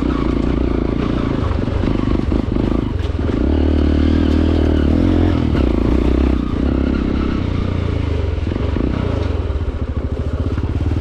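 Hero Impulse's single-cylinder engine running as the motorcycle is ridden over a muddy off-road trail. It pulls harder and louder from about a third of the way in, then eases off a little past the middle.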